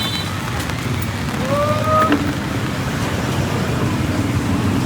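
Street traffic in the rain: a steady rumble of passing vehicles over rain noise. A short rising tone sounds about a second and a half in.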